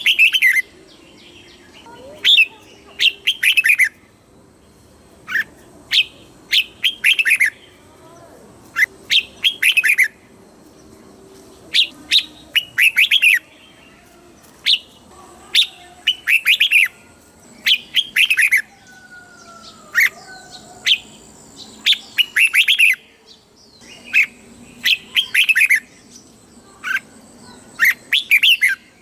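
Red-whiskered bulbul singing: short, bubbly phrases of a few quick falling whistled notes, repeated about every one to two seconds.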